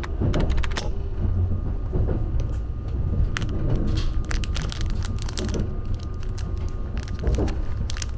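Low, steady rumble of a moving train heard from inside the passenger car, with scattered light clicks and knocks.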